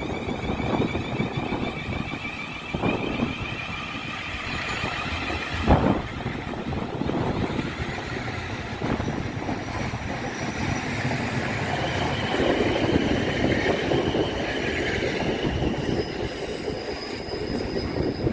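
A multiple-unit passenger train running through a station, with the rumble of wheels on rail and thin high-pitched wheel squeal that fades in the first half and returns later. Wind buffets the microphone.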